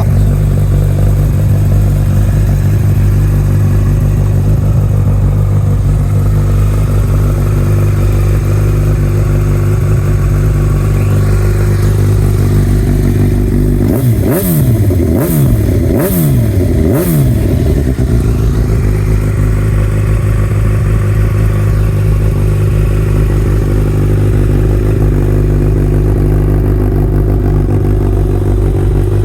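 Honda CB1000R's inline-four engine idling steadily through a full Remus aftermarket exhaust system, with the throttle blipped four times in quick succession about halfway through, each rev rising and falling.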